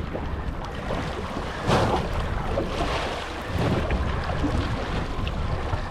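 Wind buffeting the microphone over water sloshing against a small boat's hull, with louder gusts about two seconds and again about three and a half seconds in.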